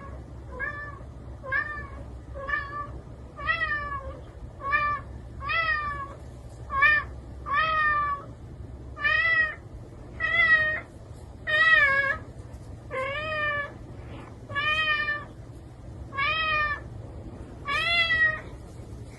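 A cat meowing over and over, about one short meow a second, each rising then falling in pitch.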